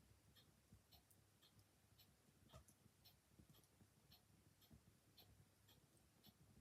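Faint ticking of a mechanical clock, about two ticks a second, over the soft crackle of a wood fire, with one louder pop from the fire about two and a half seconds in.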